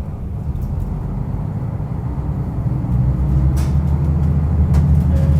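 Diesel railcar running on the line, its engine working steadily and growing louder as the train picks up speed, with a couple of faint clicks from the track.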